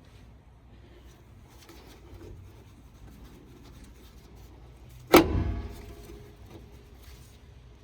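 A single sharp metal clank about five seconds in, ringing on briefly, amid faint handling of tools and parts during a differential carrier install.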